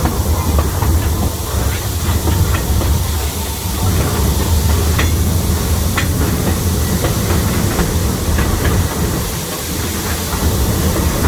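Zoo train running along its track, heard from aboard the cars: a steady low rumble under an even hiss, with scattered faint clicks from the cars and rails.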